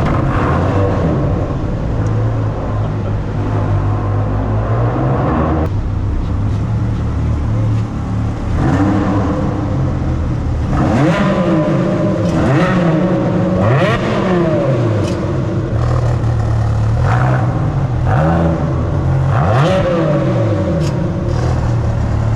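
Ferrari 360 Spider's 3.6-litre V8 running, holding a steady note at first, then revved again and again from about a third of the way in, its pitch rising and falling with each rev.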